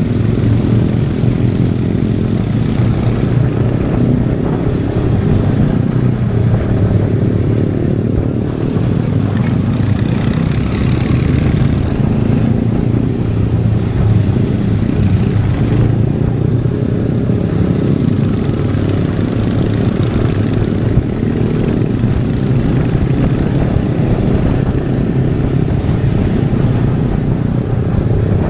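Royal Enfield Hunter 350's single-cylinder engine and exhaust running steadily under way, a dense low pulsing held at a fairly even speed with no big revs.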